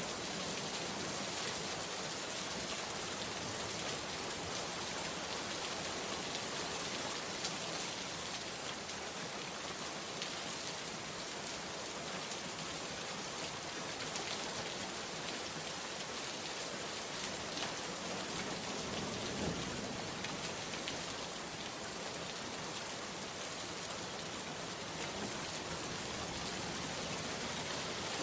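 Steady rain falling: an even hiss, with scattered sharper ticks of individual drops striking a surface.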